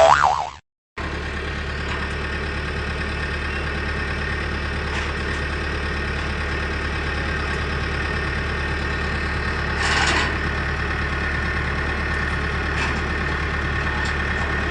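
A short warbling cartoon-style sound effect cuts off, then after a moment's silence an engine starts running steadily at idle, with a deep hum. A brief louder noise comes about ten seconds in.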